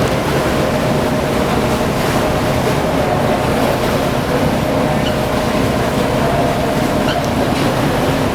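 Engine of a cruise-ship tender boat running steadily under way, a constant low drone with water and wind noise.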